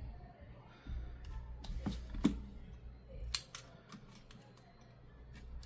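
Several sharp clicks and light taps from handling the tablet, the loudest about two and a quarter and three and a half seconds in, over a faint low hum.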